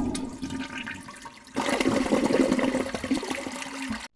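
Water rushing and gurgling over a steady hum, getting louder about one and a half seconds in and cutting off abruptly near the end.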